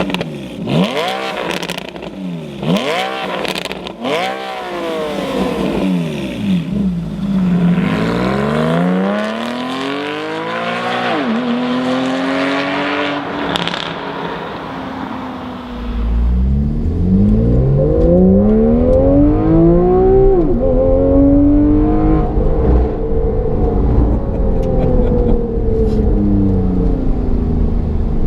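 Porsche 991 Carrera GTS flat-six engine through a Fabspeed valved exhaust, accelerating through the gears: the pitch climbs and drops again at each shift, several times in quick succession early on and in longer pulls later. A heavy low rumble joins about halfway, and the engine then holds a steadier note near the end.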